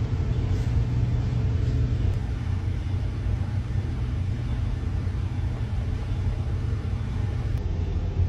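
Ship's engine-room machinery running with a steady, even low drone and a faint hum above it.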